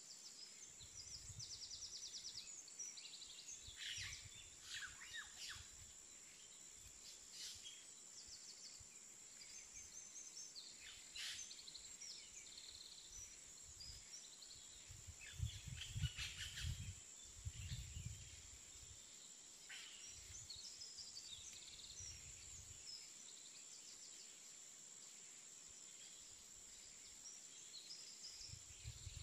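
Faint birds chirping and trilling in short repeated calls, over a steady thin high tone and intermittent low rumbles.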